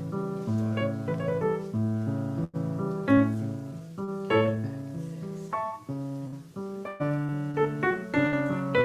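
Piano music: slow, sustained chords with a melody moving above a bass line. The sound cuts out for an instant twice.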